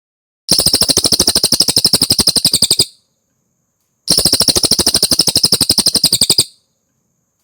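A cililin bird singing two rapid trills of sharp, high notes at about a dozen notes a second. Each trill lasts a little over two seconds, with a pause of about a second between them.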